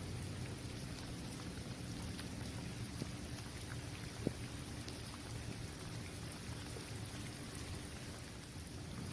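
Steady rain falling on a hard outdoor basketball court, with many small drop ticks over a low steady rumble. A single sharp tap stands out about four seconds in.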